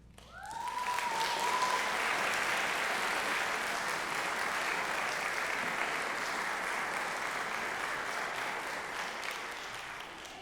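Audience applauding at the end of a concert band piece. A brief cheer rises in pitch about half a second in. The clapping fades near the end.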